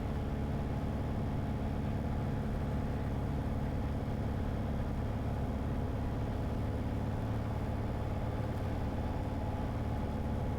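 Light aircraft's engine and propeller droning steadily, heard from inside the cockpit on final approach to landing.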